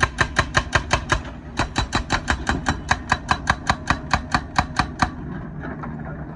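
Hydraulic breaker on a wheeled excavator hammering asphalt, rapid even blows about five or six a second, with a short break a little over a second in. The hammering stops about five seconds in, leaving the excavator's engine running.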